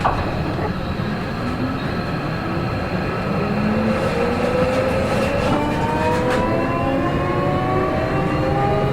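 Seibu 40000 series train's Toshiba permanent-magnet synchronous traction motors and VVVF inverter whining as the train accelerates, several tones rising slowly in pitch together over the rumble of the wheels. A short knock sounds at the very start.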